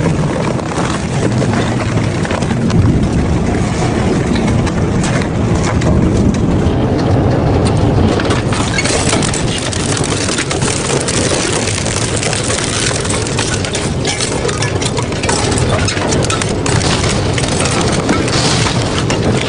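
Industrial double-shaft shredder running and crunching through metal scrap: a loud steady machine noise with many sharp cracks and knocks, coming thicker about halfway through.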